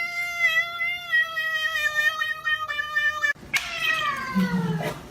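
A cat yowling in one long, drawn-out, fairly steady call that stops abruptly about three and a half seconds in. It is followed by a cat's meow that falls steadily in pitch.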